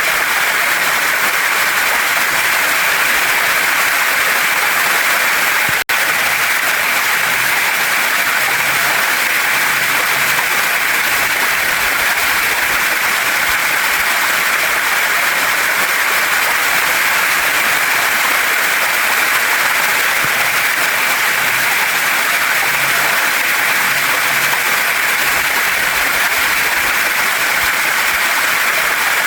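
Waterfall and stream water rushing steadily over rocks, an unbroken hiss of flowing water. A split-second dropout interrupts it about six seconds in.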